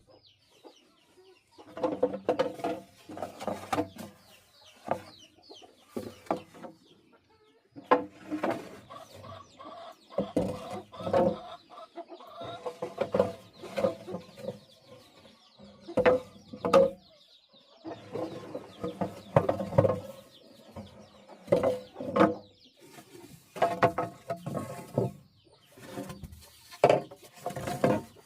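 Chickens clucking in repeated short bouts, with sharp knocks and clicks in between.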